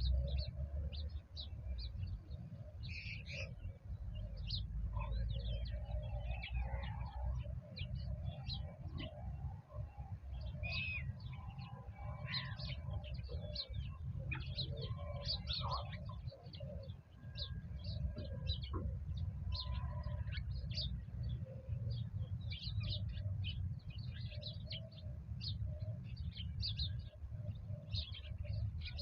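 Small birds chirping and calling constantly, many short overlapping chirps, over a steady low rumble.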